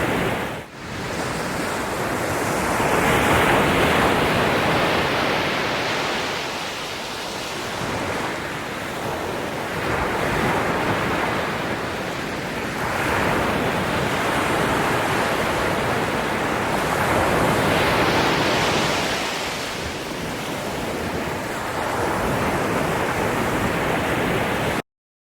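Ocean surf: waves breaking and washing up the shore, swelling and falling back every few seconds. It dips briefly near the start and cuts off suddenly near the end.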